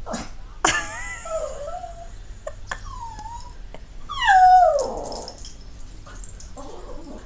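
Dog giving several high, wavering whining cries, the loudest a long cry that falls in pitch about four seconds in.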